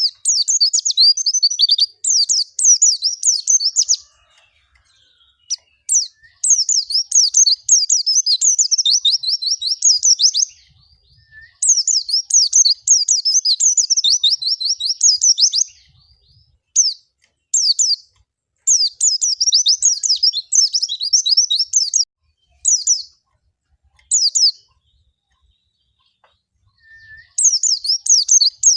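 White-eye (pleci) singing a full, rapid, high twittering song. The song comes in phrases of about two to four seconds with short pauses between them, and a few brief single bursts about two-thirds of the way through. It is a 'gacor' song of the kind played as a lure to coax caged white-eyes into singing.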